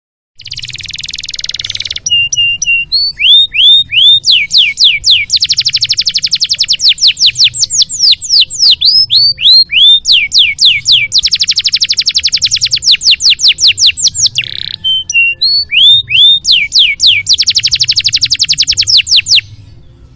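Domestic canary singing a long, loud song of fast trills and repeated sweeping whistled notes, opening with a harsh buzzing phrase and broken by another short buzz about three-quarters through; the song stops shortly before the end.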